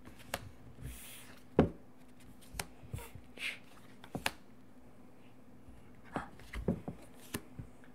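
Scattered soft taps and clicks, such as hands handling things on a table, with a couple of brief hisses.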